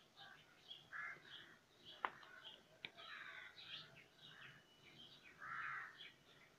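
Faint background birds chirping and calling, with two sharp clicks about two and three seconds in.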